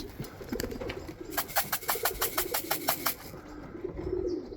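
Domestic pigeons cooing, with a quick run of about a dozen sharp clicks, roughly seven a second, starting a little over a second in and lasting under two seconds.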